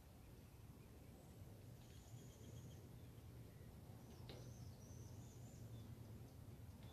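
Faint, high outdoor bird calls, a few short chirps and whistles, over a low steady hum.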